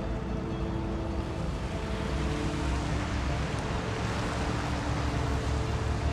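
A steady rushing noise, heaviest in the low end, that grows louder through the second half, with faint sustained background music tones over it.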